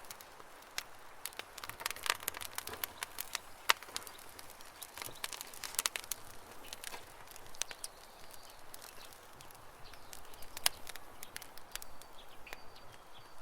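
Wood campfire crackling with irregular sharp pops and snaps, the loudest a little under four seconds in and again near eleven seconds. Birds chirp faintly in the background.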